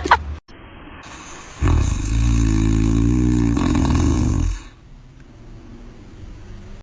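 An animal's low, drawn-out vocal sound lasting about three seconds, starting a second and a half in.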